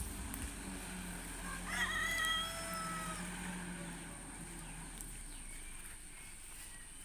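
A rooster crowing once, about two seconds in, over a low steady engine hum that fades out partway through.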